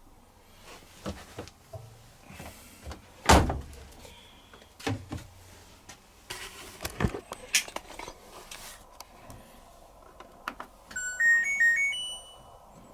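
Knocks and thunks of the LG Turbowash 360 washing machine being handled while it is loaded, the loudest a single thunk about three seconds in, as of the door or detergent drawer shutting. About eleven seconds in, the control panel plays a short tune of rising electronic beeps.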